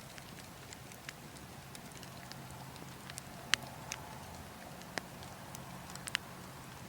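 Burning logs crackling, with sharp irregular pops: the loudest comes about three and a half seconds in and a quick pair near the end. Underneath is a steady low wind.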